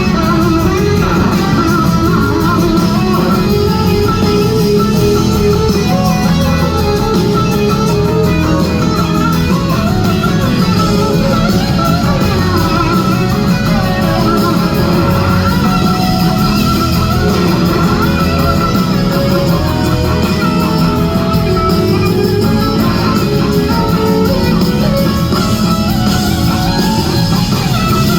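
Live rock band playing an instrumental passage, an electric guitar leading with bending, wavering lines over bass and drums.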